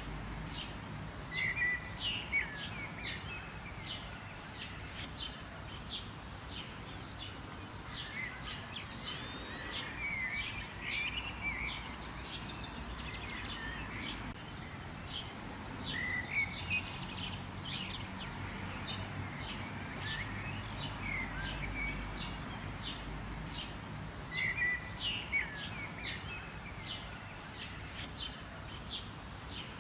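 Several wild birds calling and singing together: a steady stream of short, sharp chirps with occasional curving whistled notes, over a faint low background hum.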